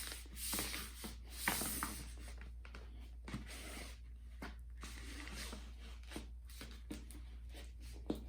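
Poster board being folded and creased by hand, rustling and rubbing in bursts over the first two seconds, then quieter with scattered small taps.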